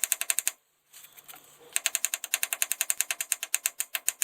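Ratchet wrench clicking in a fast, even run of about eight clicks a second; the clicking stops about half a second in and starts again a second or so later.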